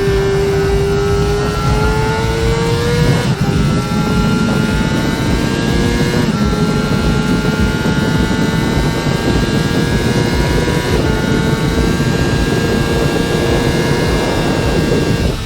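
A Honda CBR600RR's 599 cc inline-four engine running under load, its pitch climbing slowly. The tone breaks about three seconds in and again more lightly around six and eleven seconds, like gear changes.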